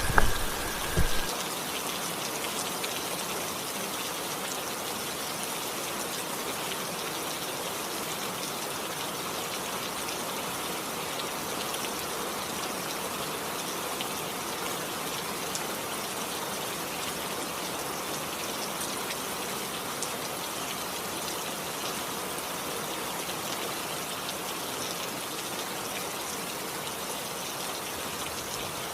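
Steady rain falling, a constant even hiss, with a couple of brief bumps in the first second.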